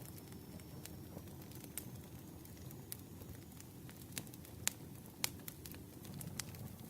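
Campfire burning, a low steady rumble of flames with scattered sharp crackles and pops of burning wood, a few louder pops about two-thirds of the way through.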